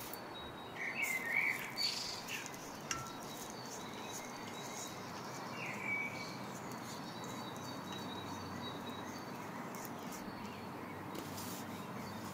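Birds chirping in a background nature ambience, a few chirps in the first two seconds and one about six seconds in, over a steady hiss.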